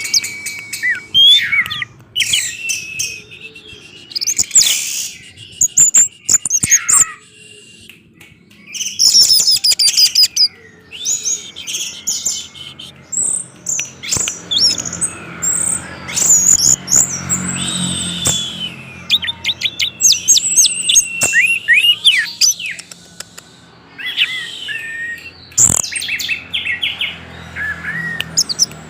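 Orange-headed thrush singing a long, varied song of quick, high whistled phrases and chattering notes, with short pauses between phrases.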